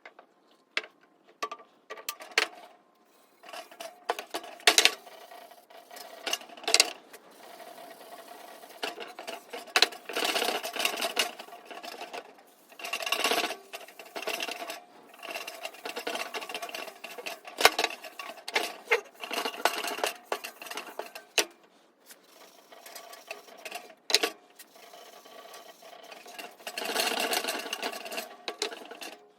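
Workshop handling sounds: sharp clicks and knocks, with a few spells of a small motorized tool running, the longest near the end.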